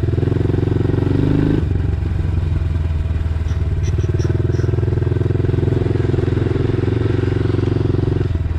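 Dirt bike engine running while being ridden, its pitch rising briefly about a second in, then dropping back and holding steady.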